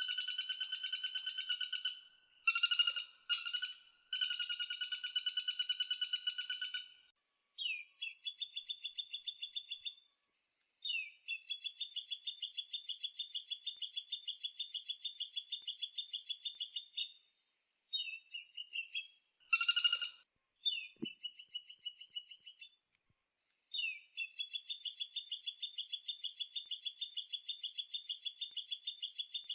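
Woodpecker calling: rapid rattling series of sharp, high notes, repeated in about nine bursts of one to six seconds each, with short pauses between them.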